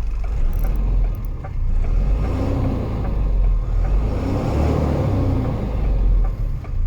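DAF LF 45.180 truck's diesel engine idling with a regular tick, then revved up and let down twice before dropping back toward idle near the end.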